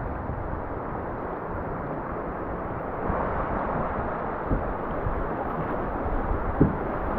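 Rushing river water and wind buffeting the microphone, a steady rush that gets a little louder about three seconds in, with two brief low thumps in the second half.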